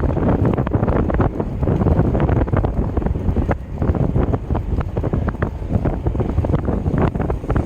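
Wind buffeting the microphone of a camera riding along on a moving bicycle, a loud low rumble with frequent small knocks and rattles.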